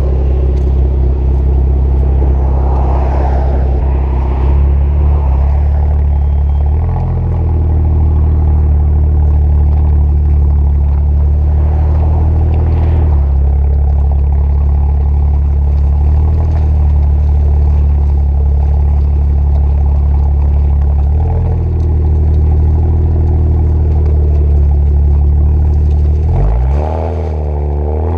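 BMW 335i twin-turbo inline-six running through decatted downpipes and an AC Schnitzer quad exhaust, holding a steady low idle, then revving up sharply near the end.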